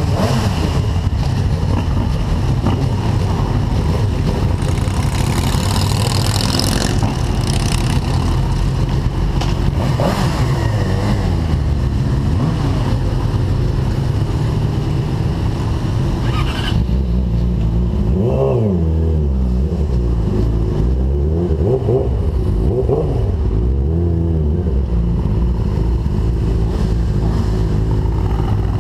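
Sport-bike engines running at idle, with throttle revs rising and falling several times in the last third.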